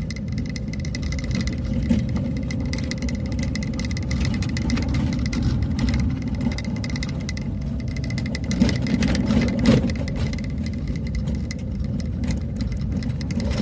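Motor vehicle driving along a road: steady low engine and road rumble with frequent small rattles and a few louder knocks.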